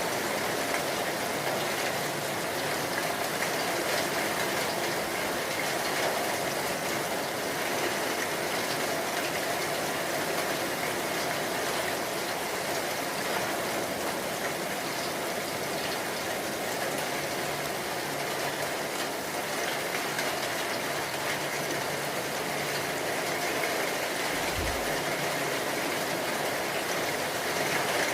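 Steady rain falling hard, an even unbroken hiss. A short low thump comes about 24 seconds in.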